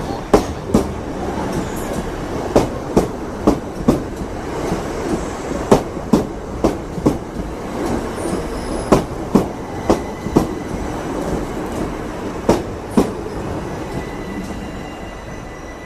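Train running through a station, its wheels clacking over a rail joint in pairs, bogie by bogie, over a steady rumble. The gaps between the pairs slowly widen as the train slows, and the rumble fades near the end.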